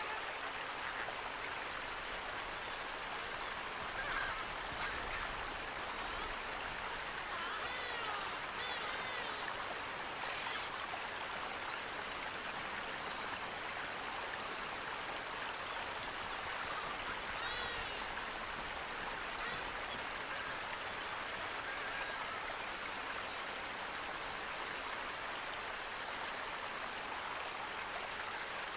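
Steady rush of flowing water, with a few faint bird chirps about 4 seconds in, again from about 8 to 10 seconds, and once near 17 seconds.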